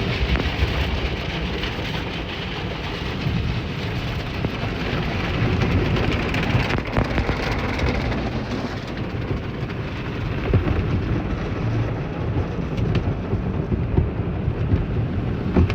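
Automatic car wash running over the car, heard from inside the cabin: a dense, continuous rush of water spray with irregular thumps and rumbling as the wash brushes beat against the body. The brushes are frozen solid, which the driver fears will scratch the paint.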